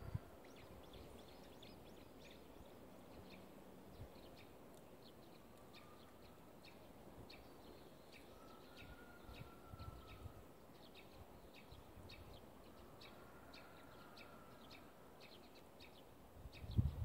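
Faint chirping of small birds: many short, high chirps throughout, with a few longer faint whistles in between, and a few soft low thumps.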